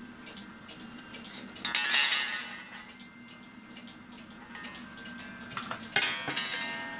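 Metal parts of a cuckoo clock clinking and rattling as they are handled, in two bursts, about two seconds in and again near six seconds, each with a brief metallic ring, over a low steady hum.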